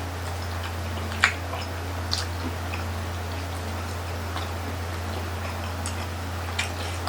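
Scattered small mouth clicks and smacks of people chewing grilled chicken-intestine barbecue (isaw), over a steady low hum.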